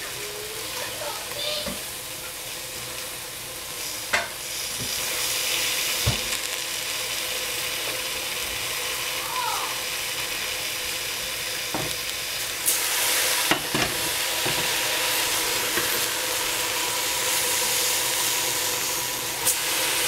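Bok choy sizzling and steaming in a stainless steel stockpot on the stove: a steady frying hiss with occasional small pops. The hiss grows louder about four seconds in and again a little past the middle.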